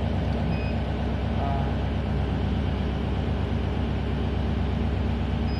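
Ship's diesel engine running steadily, a constant low drone with no change in speed.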